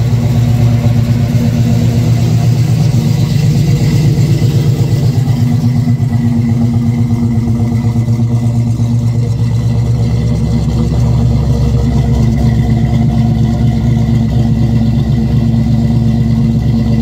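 1972 Pontiac Grand Prix's 400 V8 idling steadily, fully warmed up, with its exhaust note.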